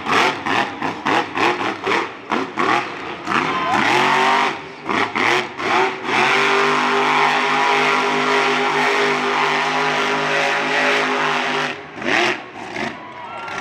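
Monster truck engine revving hard in quick throttle blips, then held at a steady high rev for about six seconds before dropping off and revving again near the end.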